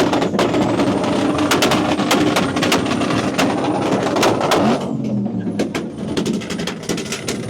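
Car engine revved up and held at high rpm with many sharp pops and cracks, then dropping back about five seconds in and picking up again lower.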